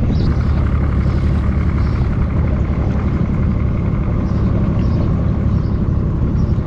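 Boat engine running steadily as the boat travels, a loud, even low drone.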